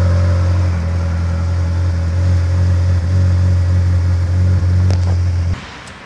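Performance car engine idling steadily just after being started with the push-button starter. The sound cuts off abruptly about five and a half seconds in.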